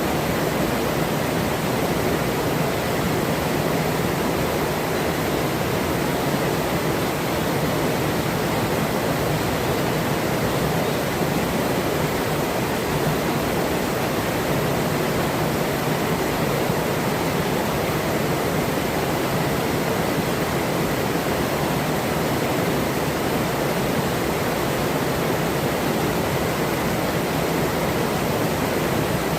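River water rushing steadily over rocks: a continuous, even roar of flowing water.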